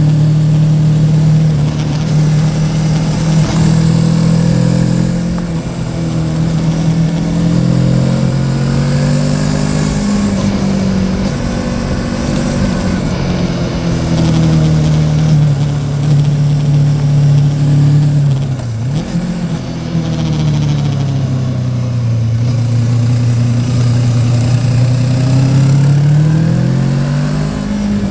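Yamaha Tracer 700's parallel-twin engine running under way on a ride, its pitch rising and falling with the throttle. It drops sharply about two-thirds through, then climbs again near the end.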